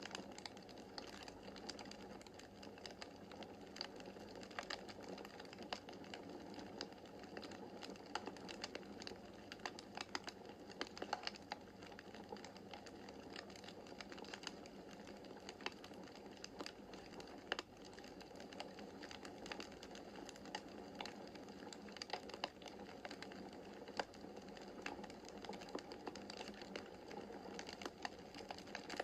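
Wood fire burning in a fireplace: a steady soft rush of flame with frequent irregular crackles and sharp pops from the burning logs.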